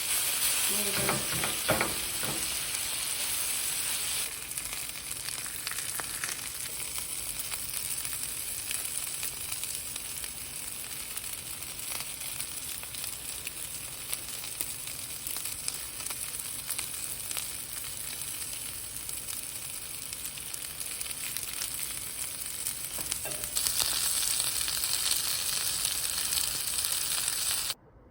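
Chicken pieces frying in avocado oil and butter in a skillet, a steady sizzle. It is louder in the first few seconds and again near the end, then cuts off suddenly just before the end.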